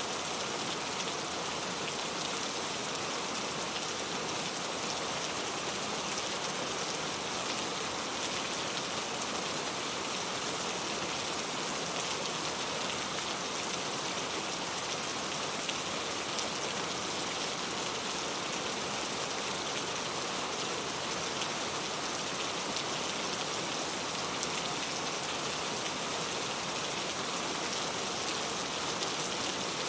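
Steady rain falling, an even, unbroken patter of many drops that holds at the same level throughout.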